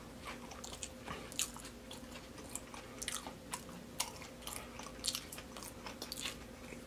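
A person chewing a mouthful of deep-fried baby back ribs close to the microphone: irregular crunches of the fried coating and mouth clicks.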